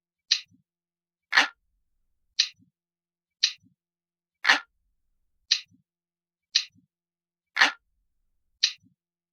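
Looped recording of an analog clock ticking, about one tick a second and nine ticks in all, with every third tick louder than the two between.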